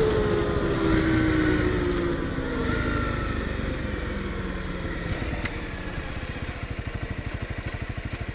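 Single-cylinder Honda dual-sport motorcycle engine winding down as the bike slows, its pitch falling steadily over the first few seconds. Near the end it settles into an even, putting idle of about nine pulses a second.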